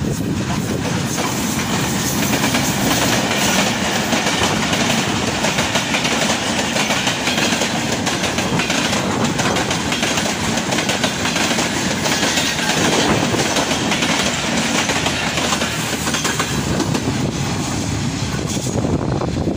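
Diesel-hauled passenger express running through a station at speed: the locomotive going by, then the coaches' wheels clattering over rail joints and points in a steady, loud rush, thinning as the last coach draws away near the end.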